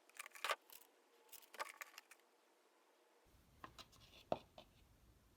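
Light clicks and clacks of small parts being handled, in two short clusters with a brief pause between.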